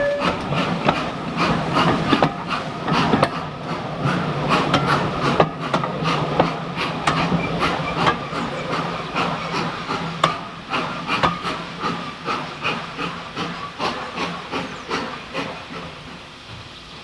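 Train running past, its wheels clicking over the rail joints in quick succession, then fading away over the last few seconds.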